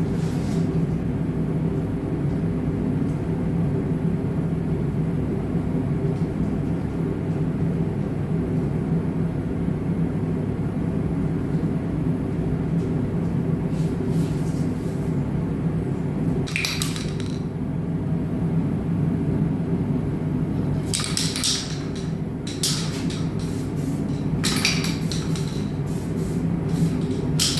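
Iwata spray gun spraying paint onto motorcycle wheels, heard as short hissing bursts as the trigger is pulled, mostly in the second half. Underneath them runs a steady low machine hum.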